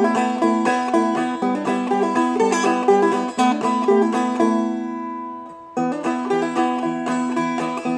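Seagull Merlin, a small four-string fretted dulcimer, played in two-finger clawhammer style: quick picked melody notes over a ringing drone. About halfway through the notes are left to ring and fade, and after a brief break the picking resumes on a lower chord.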